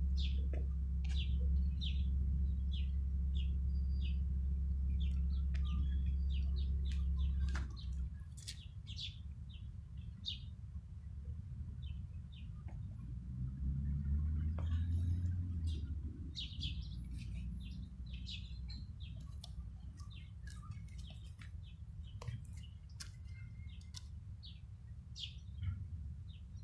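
Small birds chirping, many short high calls scattered throughout, over a low steady rumble that drops away about eight seconds in.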